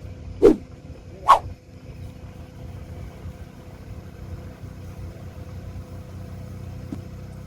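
Car travelling along a road, a steady low rumble throughout, with two loud sharp knocks less than a second apart near the start.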